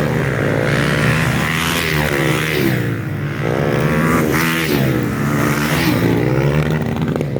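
Several motocross bikes' engines revving hard on a dirt track, overlapping, their pitch climbing and dropping again and again as the riders accelerate and shift.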